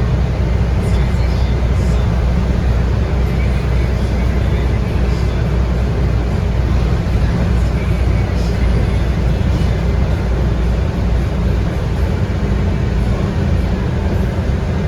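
Scania K230UB city bus running steadily under way: the low drone of its 8.9-litre five-cylinder Scania DC9 diesel engine mixed with road and body noise.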